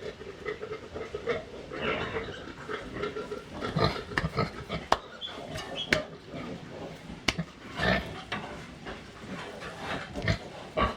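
Pigs grunting in short, irregular calls, with a few sharp clicks or knocks about five, six and seven seconds in.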